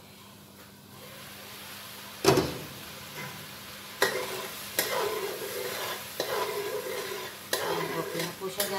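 Thick chili paste sizzling in its own separated oil in a wok while a spatula stirs and scrapes through it, with several knocks of the spatula against the pan. A sharp knock about two seconds in, the loudest sound, as the glass lid comes off.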